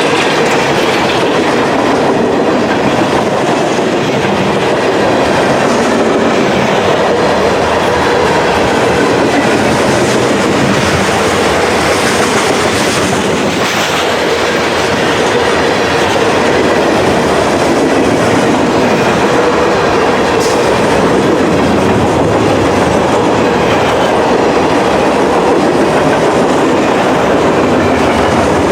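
Freight train cars rolling steadily past, steel wheels clicking over the rail joints.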